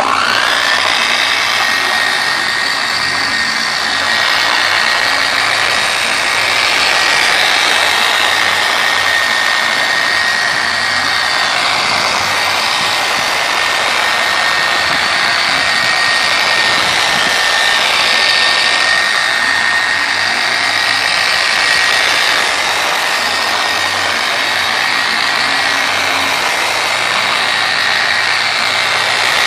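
Porter-Cable 7424 dual-action polisher spinning up and running steadily with a high, even whine, spreading a thin coat of paint sealant.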